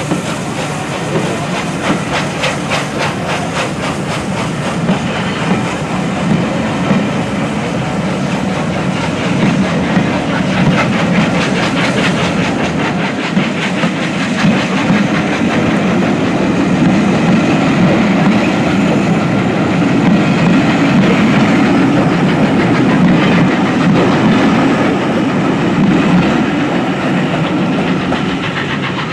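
A train passing close by, its wheels clattering rapidly and evenly over the rail joints over a steady loud rumble that swells towards the middle.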